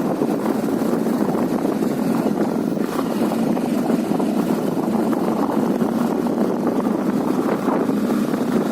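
Motorcycle running steadily at speed, with wind buffeting the microphone.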